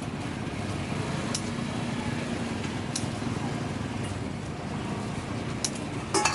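Steady street-market background din with traffic noise, broken by a few sharp clicks or clinks, the last cluster near the end.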